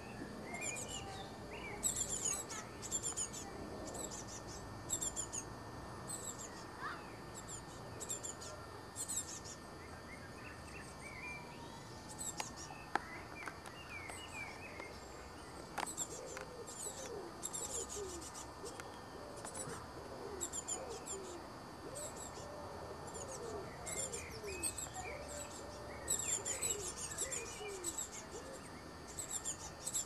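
Small birds calling in the tree canopy: repeated groups of high, thin, rapid chirps every second or so, with lower, sliding calls joining in the second half and a couple of sharp clicks.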